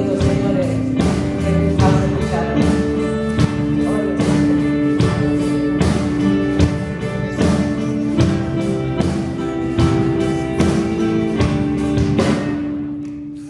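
Live pop band playing through a concert PA during a soundcheck, with a steady drum beat under long held chords. The music dies away near the end.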